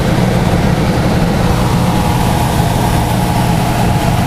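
Gas central furnace running, a loud steady low hum with an even rush of air over it.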